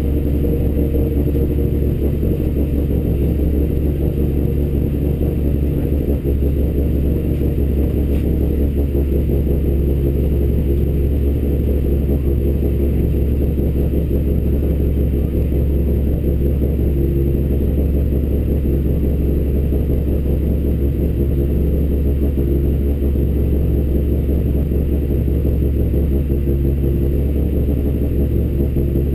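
Honda Civic Type R EP3's 2.0-litre four-cylinder engine idling steadily, heard inside the stripped race-car cabin.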